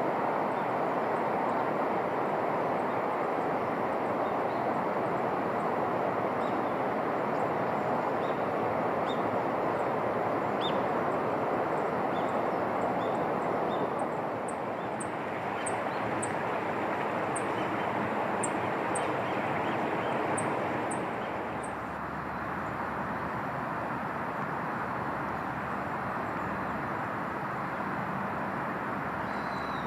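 A steady rushing background noise, easing a little partway through, with small birds giving a run of short, very high-pitched chirps and a few lower call notes.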